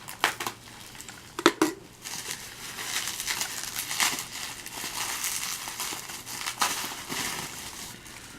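Plastic packaging crinkling and rustling as it is handled and opened, with a few sharp clicks in the first two seconds.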